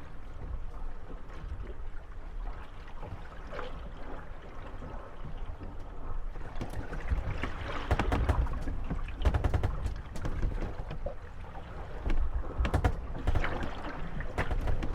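Moored Venetian gondolas rocking on choppy water, their wooden hulls knocking and rubbing against each other over the wash of small waves. The knocks come in quick clusters from about halfway through.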